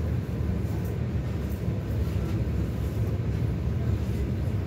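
Steady low rumble of an EP2DM electric multiple unit, heard from inside the passenger car as it runs along the line.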